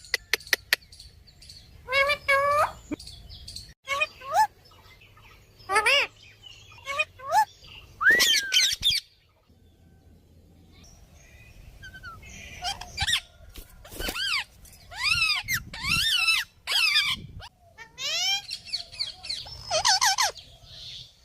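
A parrot calling in a series of short, sharp squawks and whistles with quickly sweeping pitch, a quick run of clicks at the start, and a pause of a few seconds midway.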